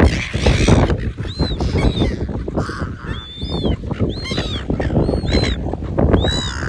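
Seagulls calling over and over, a rapid run of short arching squawks, some overlapping, with a steady low rumble underneath.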